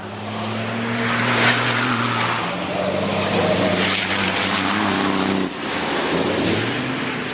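Racing truck diesel engines running hard at speed, with the engine note stepping down about two and a half seconds in and a brief dip in loudness a few seconds later.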